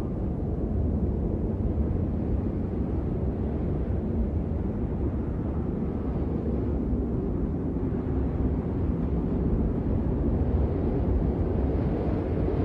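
Blizzard wind ambience: a steady, low rumbling rush of wind with no breaks.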